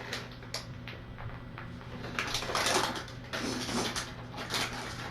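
Someone handling things close to the microphone: a run of irregular knocks, clatters and rustles over a steady low electrical hum.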